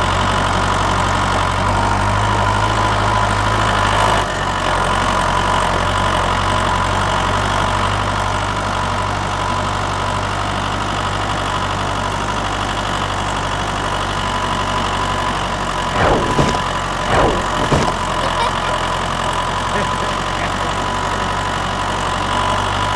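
Small engine running steadily at idle, with two brief rises and falls in pitch about sixteen and seventeen seconds in.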